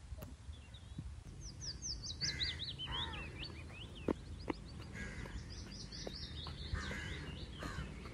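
Birds chirping in quick runs of short, high notes that fall in pitch, over a steady low outdoor rumble. Two sharp clicks come about halfway through.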